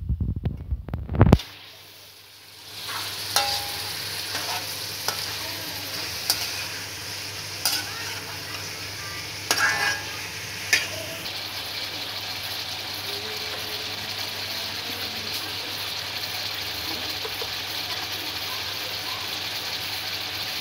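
Mutton liver pieces sizzling in hot oil in an iron karahi, a steady hiss, with a metal spatula scraping and knocking against the pan several times in the first half. A few loud low bumps come at the very start.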